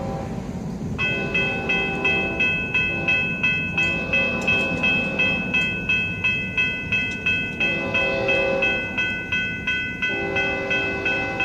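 Grade-crossing warning bell ringing a little over twice a second, starting about a second in, as a freight train approaches. A diesel locomotive horn sounds several blasts of about a second each over the low rumble of the train.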